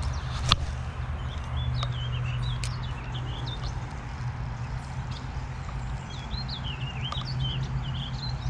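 Small birds chirping over and over in short, wavering calls, over a steady low hum, with one sharp click about half a second in.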